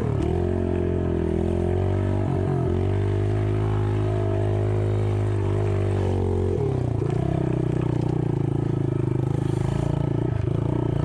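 Bulldozer diesel engine running steadily. Its note shifts briefly about two and a half seconds in and changes again about six and a half seconds in, as the load or throttle changes.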